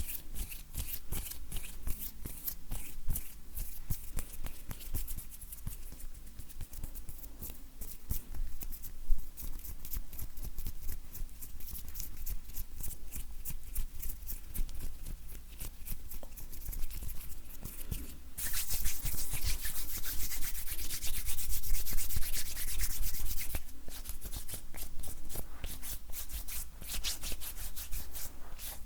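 Dry bare hands rubbing and brushing together close to the microphone: a fine crackling rustle of skin made of many small ticks. About two-thirds of the way through, a louder, continuous rubbing lasts about five seconds.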